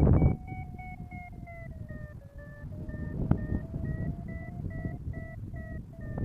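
Paraglider's variometer beeping, about three beeps a second, its pitch sagging a little about two seconds in and then rising again. This is the vario's climb tone, the sign that the glider is going up in lift. Wind rushes on the microphone underneath, loudest at the very start.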